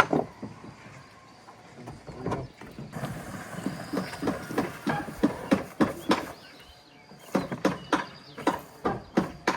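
Repeated sharp knocks on wood, irregular and spaced out at first, then coming about two or three a second from about three seconds in.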